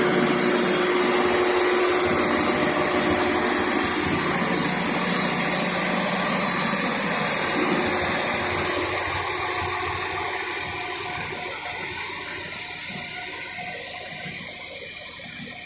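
Truck crane's hydraulic system and engine working under a test load: a steady rushing hiss with faint steady tones in it, easing off gradually over the second half.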